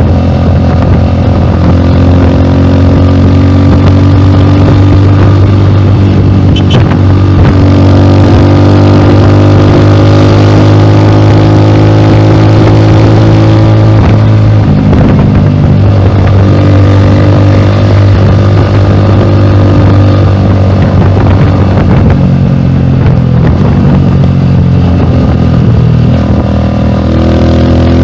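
Rusi Classic 250 motorcycle engine running loud through a bullet-style exhaust pipe on the stock elbow, its pitch slowly rising and dipping a few times.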